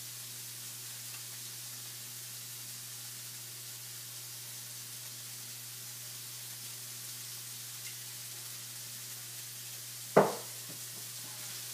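Chicken and sautéed vegetables sizzling steadily in an oiled skillet on high heat, with a single sharp knock about ten seconds in.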